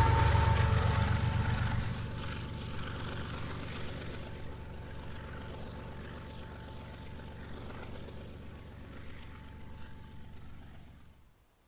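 BNSF freight train rumbling past and receding: the sound fades over the first couple of seconds, then runs on at a lower, steady level with a faint thin ringing tone, and drops away sharply near the end.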